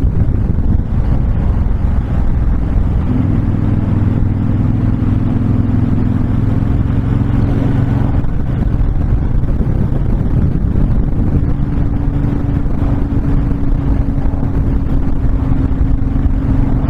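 Honda VTX1300's V-twin engine running at a steady cruise under heavy wind rush on the microphone. The engine hum holds an even pitch throughout.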